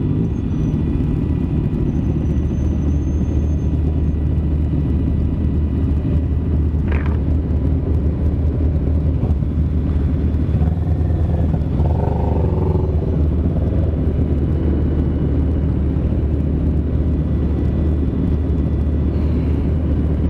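KTM Duke 390's single-cylinder engine running steadily at low speed, with wind rumble on the helmet-mounted camera microphone.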